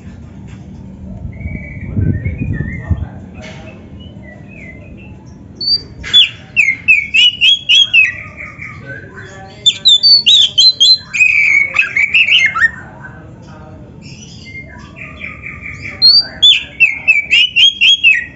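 Oriental magpie-robin (kacer) singing: three loud runs of fast, repeated high notes, the first about six seconds in, with softer chirps between them.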